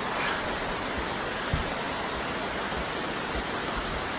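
Amicalola Falls waterfall rushing, a steady hiss of falling water, with a few faint low thumps.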